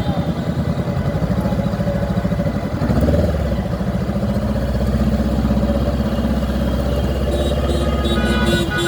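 Motorcycle engines running at low speed in a large group ride; a deeper, heavier engine note joins about three seconds in. Horns start tooting near the end.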